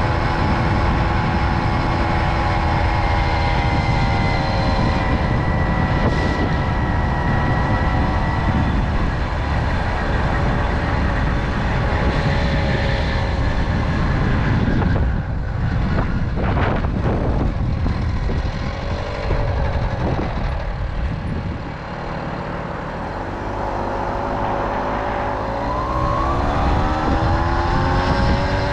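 Tomos moped's small two-stroke engine running under way, with wind buffeting the microphone. The engine holds a steady pitch, eases off and drops lower past the middle, then winds back up near the end.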